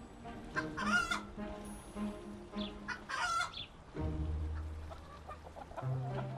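Chickens clucking, with two loud, sharp calls about one and three seconds in, over quiet background music.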